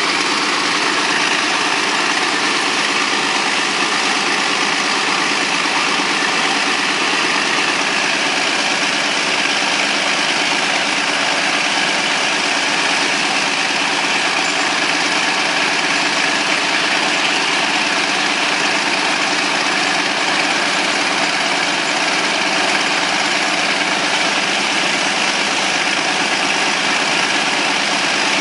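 Vintage Caterpillar D13000 diesel engine running steadily, with no change in speed.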